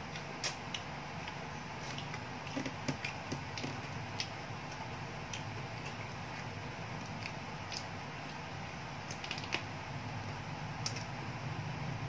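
Crunching and chewing of crispy fried chicken breading close to a headset microphone: irregular crisp clicks over a steady low hum.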